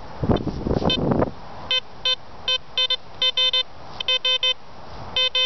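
Metal detector giving short, irregular beeps in quick clusters as it is passed over a target in a dig hole. A brief burst of rustling noise comes before the first beep.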